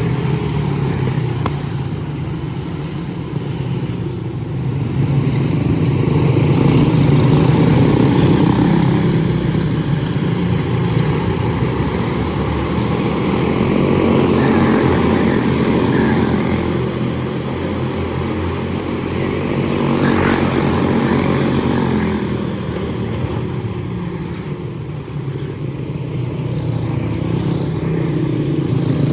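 Quarter midget race cars' small single-cylinder engines running flat out on the track, their sound swelling and fading every several seconds as the cars circle.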